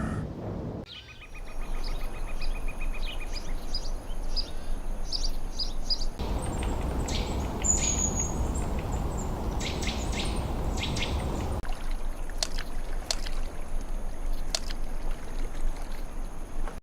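Wild birds chirping and calling, with a rapid trill a second or so in. The background changes abruptly a few times, and there is a louder rushing noise from about six seconds in to nearly twelve.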